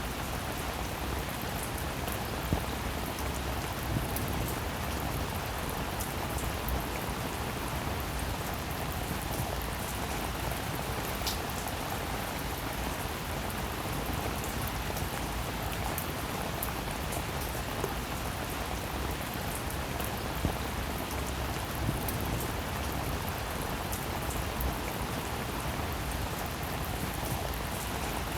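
Steady rainfall, an even hiss of falling rain with scattered sharper drop hits every few seconds.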